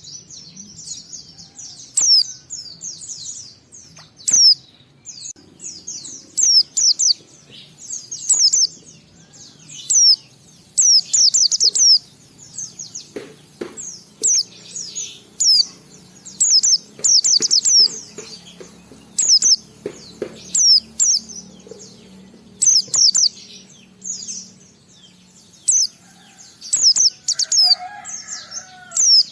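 White-eye (pleci) singing: clusters of rapid, high, sweeping chirps, phrase after phrase with short pauses between.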